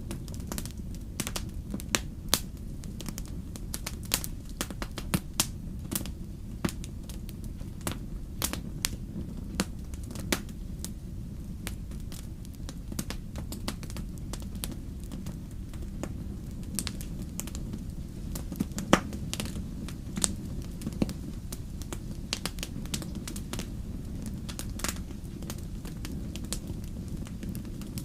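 Wood fire in a fireplace crackling, with frequent sharp pops of varying loudness over a steady low rumble.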